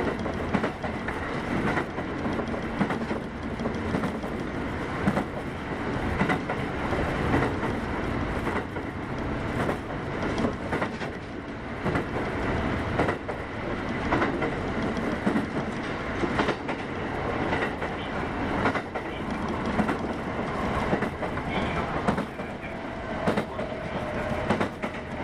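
Kintetsu 8810 series electric train running at speed, its wheels clicking irregularly over rail joints. A faint whine comes in near the end, falling slightly in pitch.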